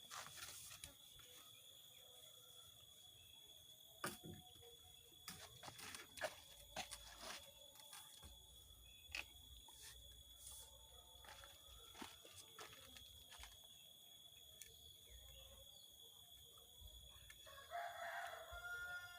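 Mostly quiet, broken by scattered sharp clicks and knocks, with a faint steady high tone throughout. A rooster crows once near the end.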